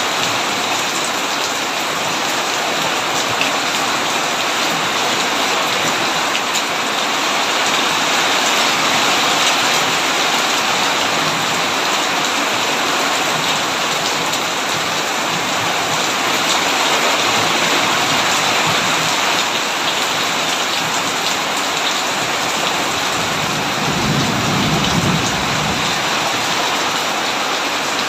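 Heavy rain drumming steadily on a tin roof, with a brief low rumble of thunder a few seconds before the end.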